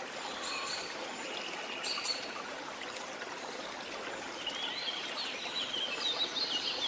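Waterfall water running steadily, with birds calling over it. A flurry of quick chirps builds near the end.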